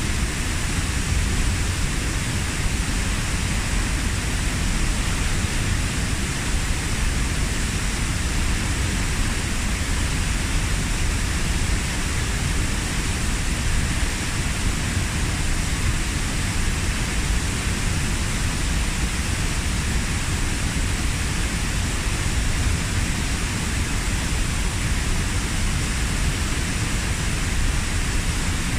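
A waterfall about 15 m high, with its water crashing into the pool below in a loud, steady, unbroken rush.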